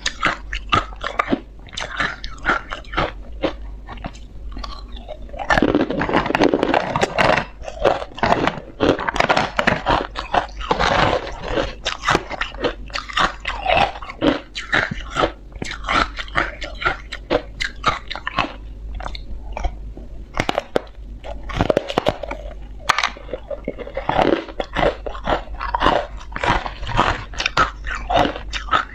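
Close-miked chewing of ice: a dense run of sharp crunches and crackles as pieces are bitten and ground between the teeth, heaviest for a few seconds in the middle.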